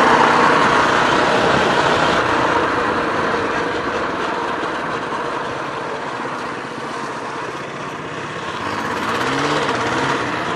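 Mini bike's small engine running while riding, easing off about midway through. Near the end the engine note rises and falls in a few quick revs.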